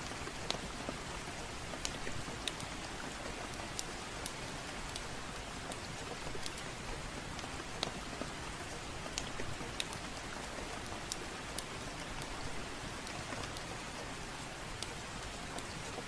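Soft, steady rain, an even hiss, with scattered sharp crackles and pops from a wood fire in a fireplace, one or two a second.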